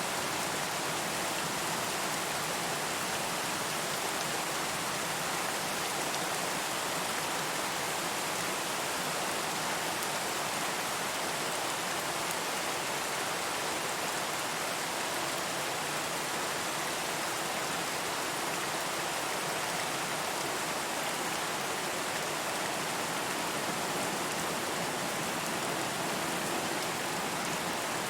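Steady rain falling, an even hiss of many raindrops on a surface with no thunder.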